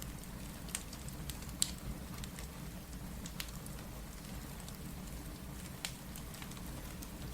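Fireplace crackling, with a few sharp pops, the loudest about one and a half seconds in, over steady rain and a low rumble.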